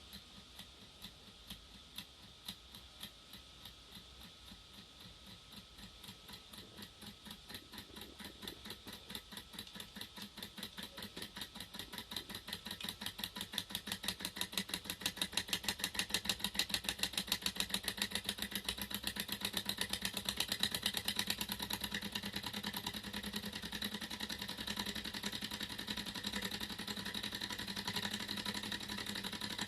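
Thermoacoustic engine model running up to speed: a rhythmic mechanical ticking that quickens steadily and grows louder, settling into a fast, even run near the end.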